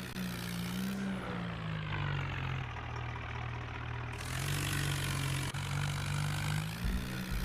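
Tractor diesel engine running steadily, its speed dipping a little and picking up again partway through, with a few low bumps near the end.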